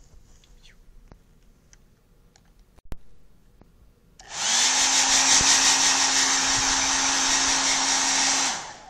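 Handheld hair dryer switched on about four seconds in, running steadily with a motor hum under the rush of air, then switched off shortly before the end. Before it come a few faint clicks and a single sharp knock about three seconds in.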